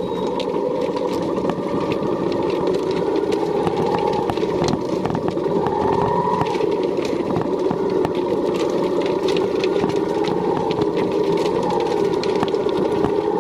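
An engine running steadily, its pitch wavering slightly, with many sharp clicks and clatters throughout.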